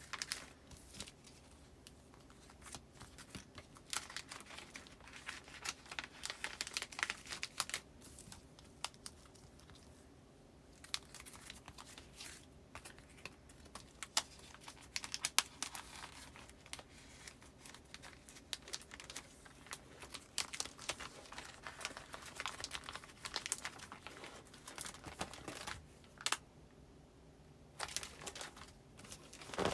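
Postcards and paper goods being filed into a binder's plastic pockets: irregular crinkling and rustling of plastic and paper, with small taps and clicks. The handling pauses briefly twice.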